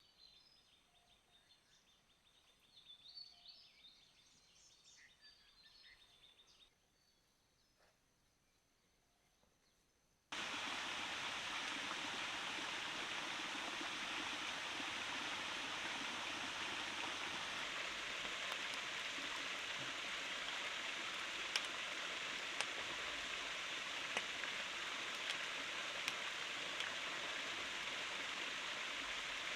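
Faint high birdsong chirps, then near silence. About ten seconds in it cuts abruptly to a steady rush of flowing water, with scattered sharp drip-like ticks.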